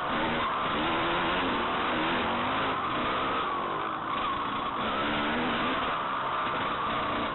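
Motocross dirt bike engine running hard, its pitch rising and falling over and over as the throttle is opened and closed through the corners and straights.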